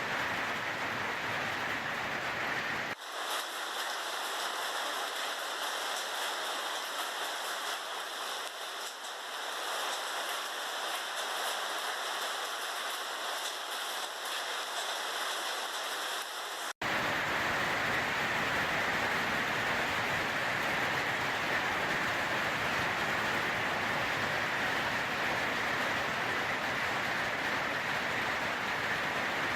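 Steady downpour of a storm with rain and hail, heard as a constant rushing noise. About three seconds in it cuts to a thinner, hissier recording without bass, and past the middle it cuts back to a fuller roar of falling rain and hail.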